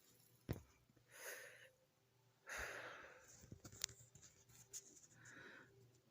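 Faint breaths of a person smoking a cigarette: three soft draws and exhales of smoke, the loudest about two and a half seconds in, with two small sharp clicks between them.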